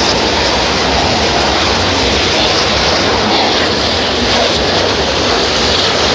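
Many burning espadas, handheld bamboo-tube fireworks packed with gunpowder, spraying sparks together with a loud, steady hissing rush.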